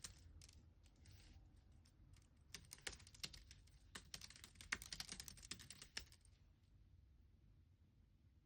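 Computer keyboard typing in quick irregular bursts of key clicks, stopping about six seconds in.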